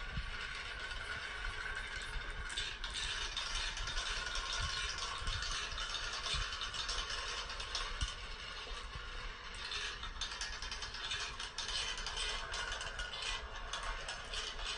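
Marbles rolling along a marble-race track, a steady clatter of many small clicks and rattles as they run the course.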